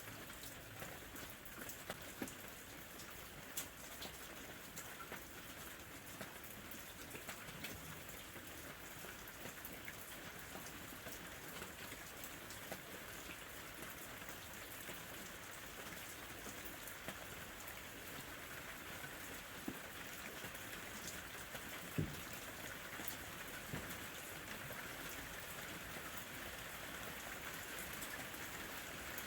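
Gentle rain falling steadily, an even hiss with scattered individual drops tapping close by. One louder drop lands about three-quarters of the way through.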